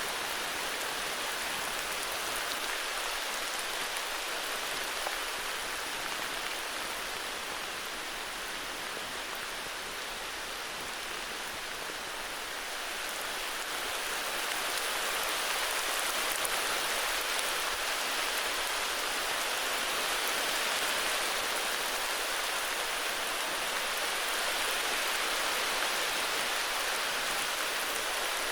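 Steady heavy rain falling, an even hiss of drops that swells slightly louder about halfway through.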